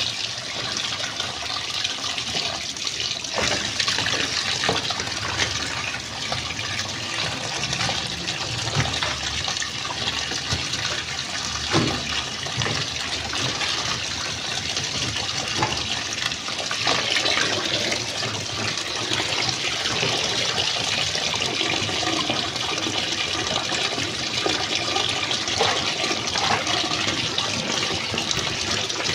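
Water running steadily and splashing in a twin-tub washing machine, with a few faint knocks.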